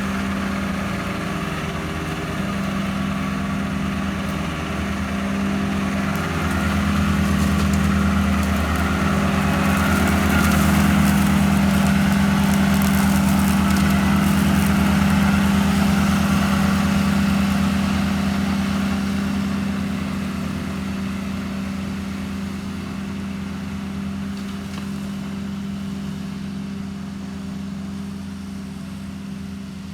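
Walker ride-on mower's Kubota diesel engine running steadily with its blades spinning. It grows louder about a quarter of the way in, then slowly fades toward the end.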